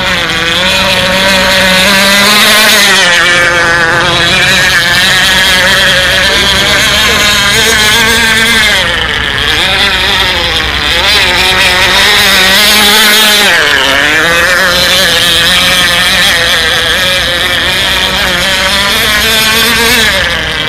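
Radio-controlled F1 model boat's K&B 7.5 glow two-stroke outboard running flat out, its high engine note dipping and rising again several times as the boat eases off and picks back up.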